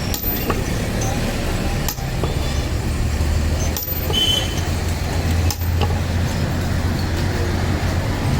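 Steady low mechanical hum, broken by brief dips about every two seconds.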